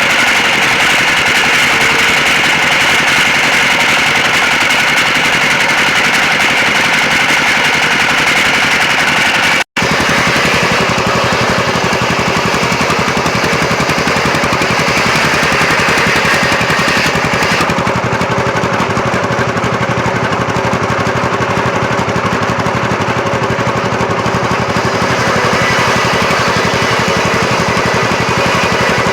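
Loud, steady running of sawmill machinery with a rapid rattle. It breaks off for an instant about ten seconds in and comes back with a different character, then changes again a little past the middle.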